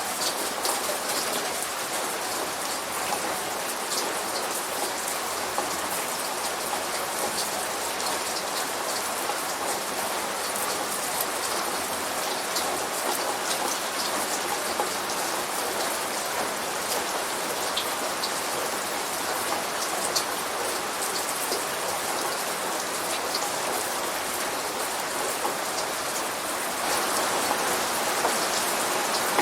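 Steady light rain falling, a dense patter of individual drops over an even hiss. It grows a little louder shortly before the end.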